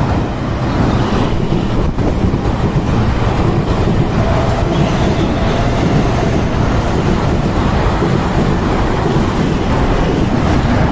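A Nankai electric train running past close to the platform: a loud, steady rush and rumble of wheels on rail, with a faint whine held for a few seconds in the middle.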